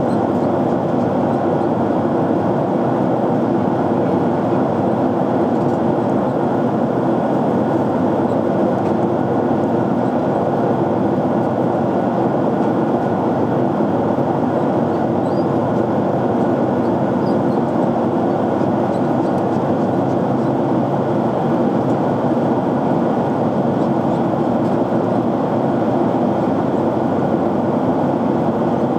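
Steady rushing cabin noise of a jet airliner in flight, the airflow and engine noise heard from inside the cabin, even and unbroken.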